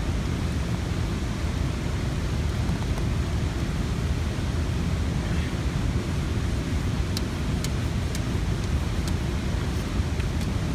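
Steady rushing roar of Johnston Creek's waterfall and rapids, an even noise with no rhythm, with a few faint small clicks in the second half.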